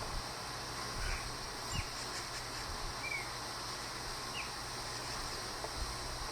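Outdoor field ambience: a few faint, short bird chirps spaced a second or more apart over a steady high insect buzz.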